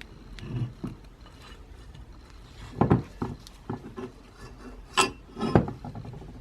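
Workbench handling noises from restoring a hand-cranked grinder: scattered light clicks and scrapes, with a louder knock about three seconds in and two more near the end.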